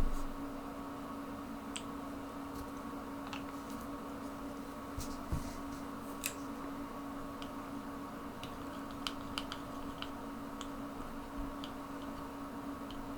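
Small scattered clicks and taps as paint dropper bottles are handled and paint is stirred on a palette, with a thump right at the start, over a steady low hum.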